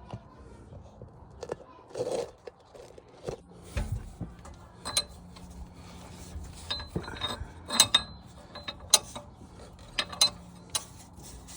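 Scattered sharp metallic clicks and knocks of hand tools and exhaust hardware being handled while refitting a part under a car.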